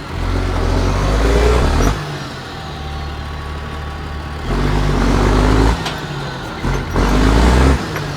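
Liaz 4x4 truck's diesel engine revved hard in three bursts of one to two seconds, dropping back to a lower, steadier run between them.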